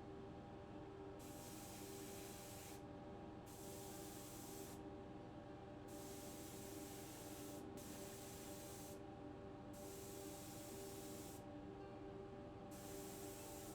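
Compressed-air sprayer hissing in about five short bursts of one to two seconds each, over a steady low hum.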